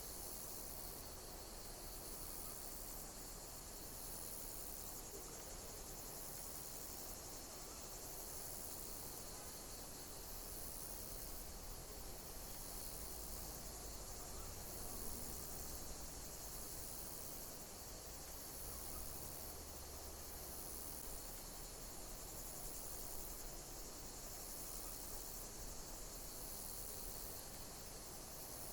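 Insects chirping steadily: a continuous high-pitched trill with a louder, high chirp repeating about every two seconds.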